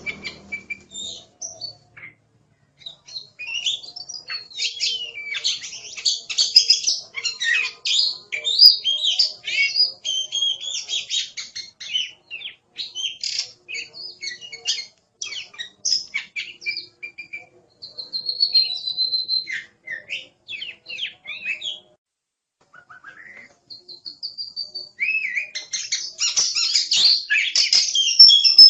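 Oriental magpie-robin singing a fast, varied song of whistles and chattering notes. The song breaks off for a second or two a little past two-thirds through, then comes back louder and denser.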